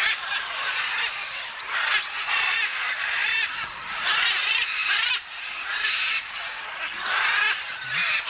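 Parrots squawking: a run of harsh, repeated calls with short breaks between them.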